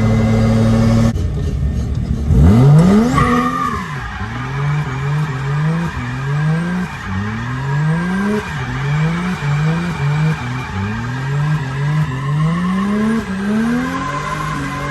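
Turbocharged drift car engine revving hard again and again, its pitch climbing and falling about once a second, with tires squealing as the car slides. A sharp rev comes about two seconds in.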